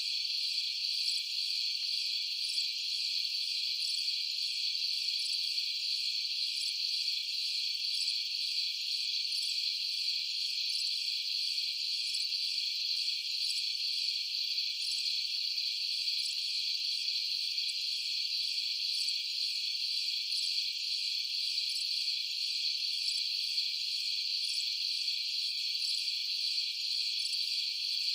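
A steady, unbroken chorus of crickets and other night insects, high-pitched, with a faint quick pulsing above the main drone and no low sounds beneath it.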